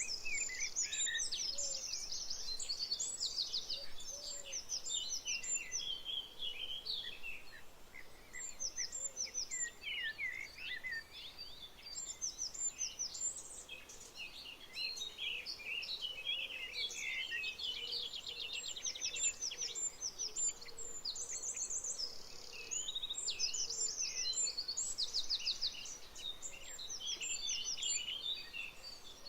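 Dense chorus of many songbirds singing at once: overlapping chirps, whistles and fast trills, over a faint steady hiss.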